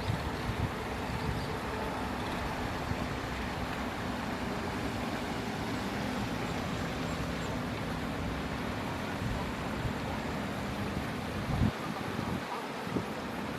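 Steady outdoor background rumble with a low engine-like hum, typical of distant motor traffic. Near the end a knock sounds and the low rumble drops away.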